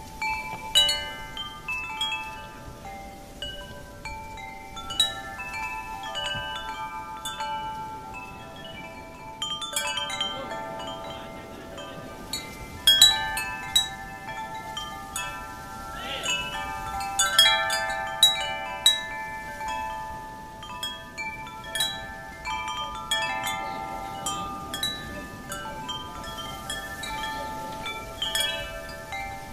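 Wind chimes ringing: many clear tones struck at irregular moments, overlapping and ringing on, with a few louder clusters along the way.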